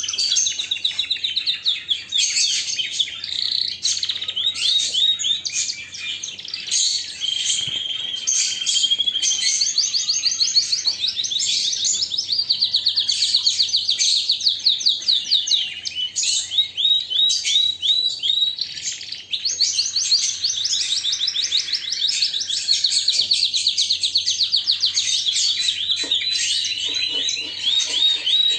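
Domestic canary singing continuously: long rapid trills and rolling runs of quickly repeated high notes, changing from one trill to the next every few seconds.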